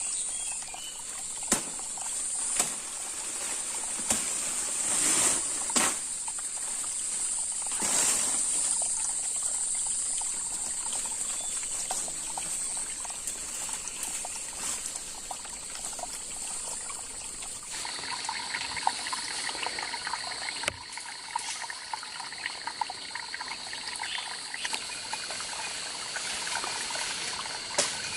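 Water trickling and splashing, with a steady high-pitched buzz and a few sharp knocks. About two-thirds of the way through, the background changes abruptly to a lower buzz with many small ticks.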